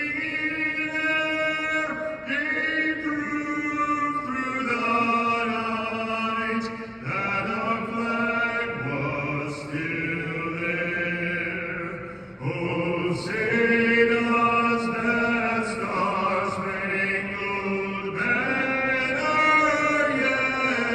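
A national anthem being sung, with long held notes and short breaks between phrases.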